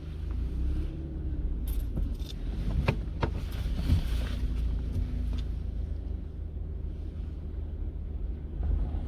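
Low steady rumble of a car running with the window down, with a few sharp clicks and knocks about three to four seconds in.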